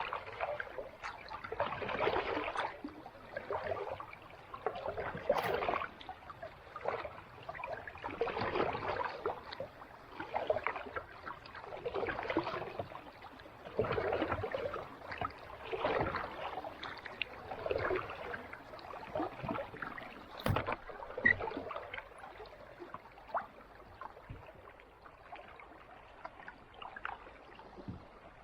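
Kayak paddle strokes on calm sea water: a swish and splash as the blade dips and pulls, about one stroke every two seconds, growing softer in the last few seconds. One sharp knock about two-thirds of the way through.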